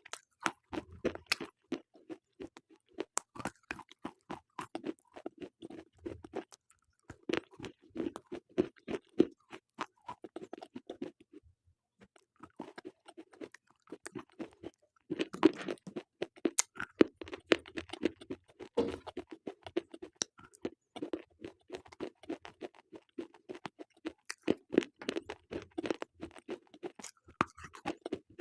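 Slate pencils being bitten and chewed: rapid, irregular dry crunches and cracks, with short pauses about six and twelve seconds in.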